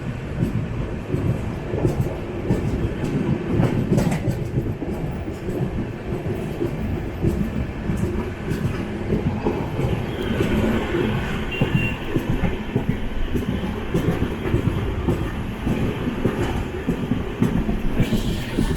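Express passenger train running along the line: a steady rumble of coach wheels on the rails, with scattered knocks of wheels over rail joints.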